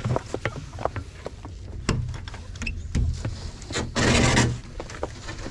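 Scattered knocks and clicks over a low rumble, with a loud rush of noise lasting about half a second, some four seconds in.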